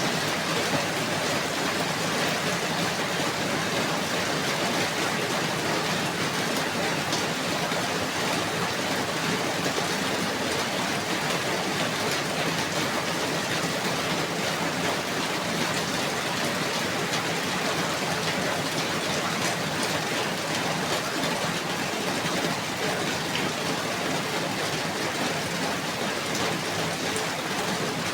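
Steady, even rainfall, dense and unbroken, with faint individual drops ticking through it.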